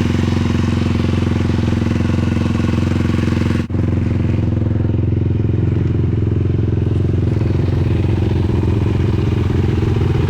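Sport quad's single-cylinder four-stroke engine running at a steady speed, with a brief break in the sound about a third of the way through.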